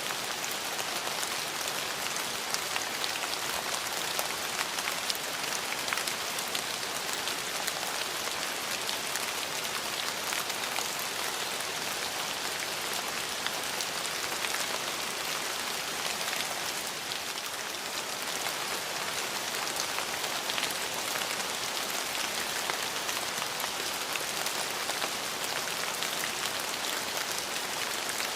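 Steady rain falling, a dense even hiss of drops with many small individual drop ticks.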